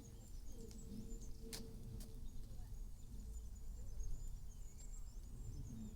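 Small birds chirping and twittering in short, high, thin calls over a low steady outdoor rumble, with a single sharp click about one and a half seconds in.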